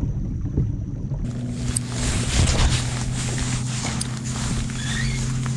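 A boat motor running steadily with a low hum, over water and wind noise that comes in suddenly about a second in.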